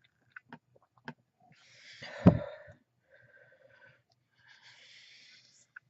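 Small clicks and handling noise of craft tools on a desk, with one loud thump about two seconds in, likely a rubber stamp pressed down onto card. Soft breathing is heard near the end.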